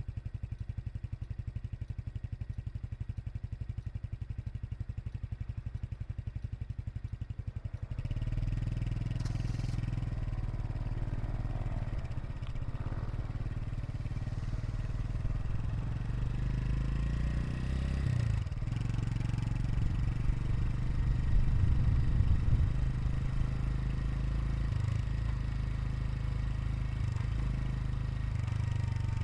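Honda Super Cub 110 Pro's single-cylinder four-stroke engine idling with a steady low exhaust pulse. About eight seconds in the sound switches abruptly to louder, rougher running, with engine speed rising and falling and the loudest stretch about three quarters of the way through.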